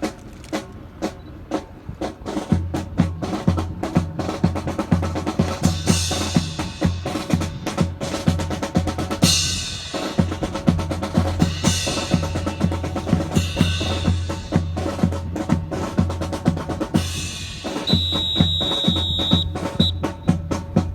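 Marching percussion playing a fast drum cadence: snare and bass drums with rimshots and several cymbal-like crashes. Near the end a steady high tone sounds for about a second and a half, followed by a short second one.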